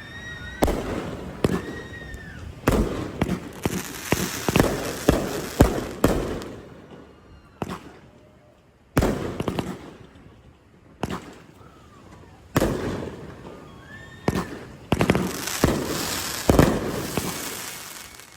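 Fireworks going off: a string of sharp bangs, some clusters trailing into crackling, with short lulls in between.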